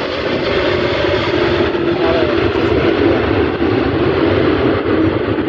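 Airbus A330 airliner's twin jet engines, a loud steady roar with a droning tone that wavers slightly.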